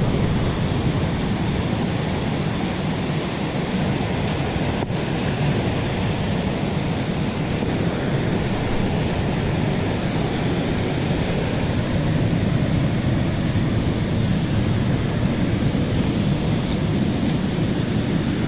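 Steady roar of rushing water from a waterfall on a mountain trout stream.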